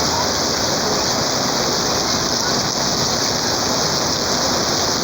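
Heavy rain falling and splashing on the ground, a steady even hiss.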